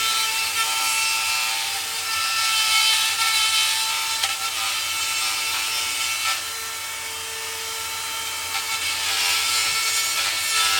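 A high-speed power grinder running steadily with a whine, grinding rough casting slag off the oil drain-back openings of a cast-iron Chrysler 383 engine block. The grinding eases a little around the middle and picks up again.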